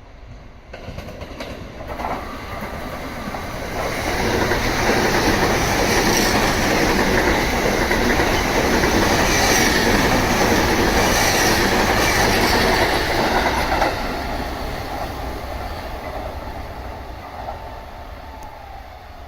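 An electric passenger train passing through a station at high speed without stopping: the noise of its wheels on the rails builds over a few seconds, stays loud for about ten seconds, then dies away as it recedes.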